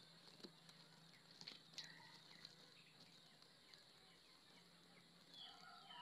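Near silence outdoors with a few faint, short bird chirps, a couple of them about a second and a half to two seconds in and a small cluster near the end.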